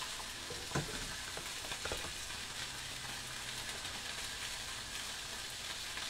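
Soaked rice vermicelli sizzling in a frying pan with oily mee siam paste, a steady hiss with a couple of light knocks in the first two seconds.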